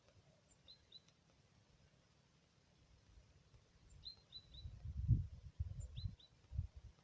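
Small birds chirping: short, high, downward-curving notes in groups of two or three. From about four and a half seconds in, a low rumble comes and goes; it is louder than the chirps.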